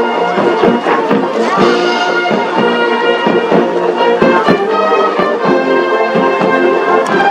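Military band playing a march: brass carrying the tune over a steady drum beat.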